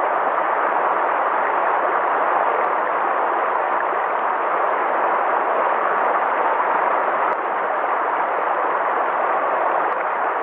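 River water flowing steadily, an even wash of water noise with no distinct splashes or other sounds standing out.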